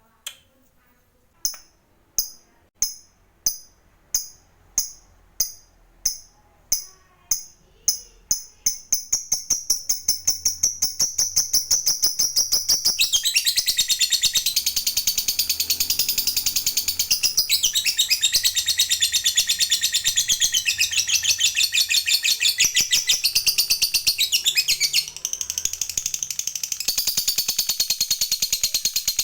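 Lovebird chirping singly at first, about one and a half calls a second, then speeding up into a rapid chatter. About halfway through it becomes a long, continuous high-pitched trill, the drawn-out 'ngekek' song, broken briefly near the end.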